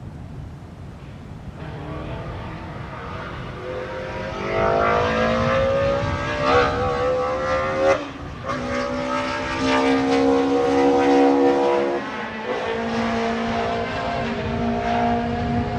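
BMW M3 E30 DTM race car's four-cylinder engine accelerating hard, its pitch rising, with a sharp gear change about halfway through. It then holds high revs before dropping again near the end.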